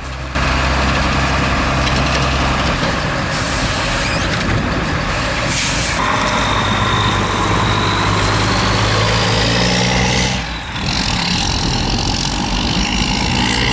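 Heavy diesel machinery running steadily under load, with a faint rising whine in the middle. The sound briefly drops out about ten and a half seconds in, then the machinery sound carries on.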